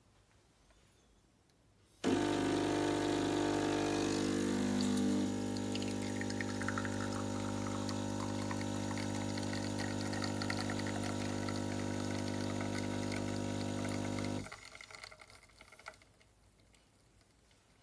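De'Longhi Dedica espresso machine's vibration pump humming steadily while espresso pours. It starts about two seconds in and cuts off a few seconds before the end.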